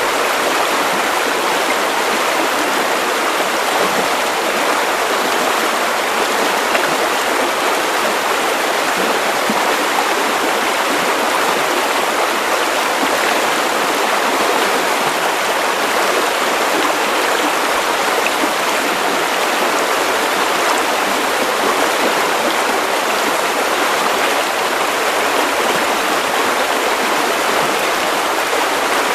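Steady white noise for sleep: an even, unchanging hiss with little deep rumble.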